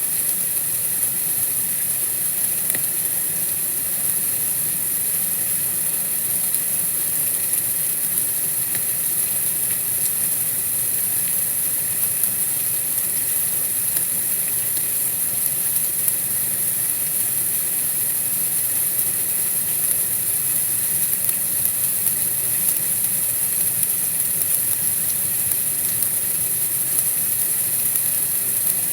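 Steady white-noise hiss, strongest in the high treble, unchanging throughout.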